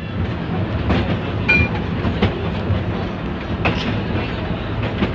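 Train running along the track: a steady low rumble with the clack of wheels over the rails.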